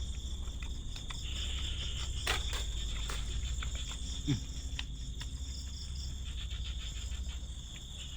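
Crickets and other night insects chirring steadily, with scattered small clicks and a couple of sharper knocks a little after two and three seconds in. About four seconds in there is a short falling low tone.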